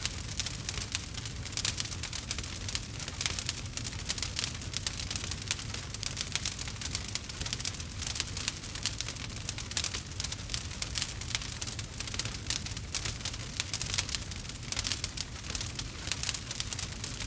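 Campfire crackling steadily: a dense run of small snaps and pops over a low, even rumble.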